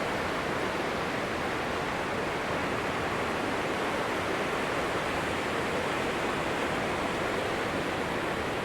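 Atlantic surf washing onto a beach: a steady, even rush of waves with no single crash standing out.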